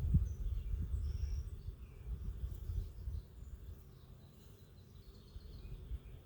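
Outdoor ambience: an uneven low rumble on the microphone, loudest at the start and dying away after a few seconds, with faint bird chirps above it.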